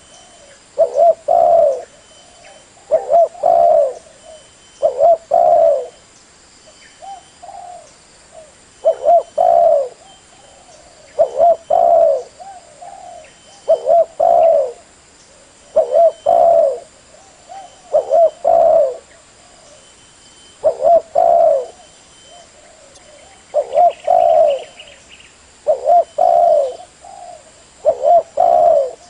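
Spotted dove cooing: a short phrase of a few low notes, repeated about every two seconds, the kind of call played to lure doves in.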